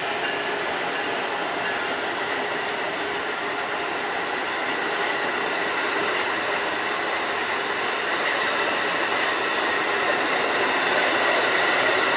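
Amtrak Acela Express high-speed electric trainset passing close by at speed: a steady rush of steel wheels on rail and moving air, with a faint steady whine above it, growing a little louder toward the end.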